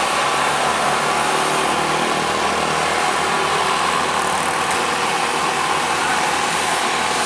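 Motor vehicle engine running steadily, under an even wash of road and traffic noise.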